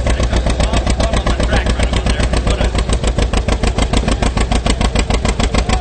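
A tractor engine running loudly under a pull, with an even, rapid beat of about ten pulses a second.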